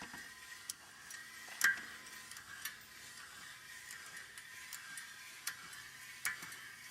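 Irregular metallic clicks and ticks from a Ringmaster tire tool being cranked with its speed handle, the threaded rod pushing a loader tire and ring assembly onto the wheel. One click about a second and a half in is louder than the rest.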